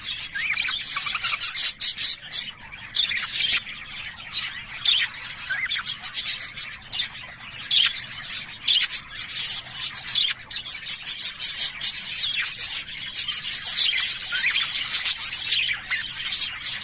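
English budgerigars chattering: a continuous stream of quick high chirps, clicks and squawks.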